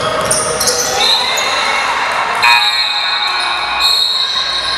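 Basketball game sounds on a gym court: the ball bouncing, with high squeaks of sneakers on the floor and echoing hall noise.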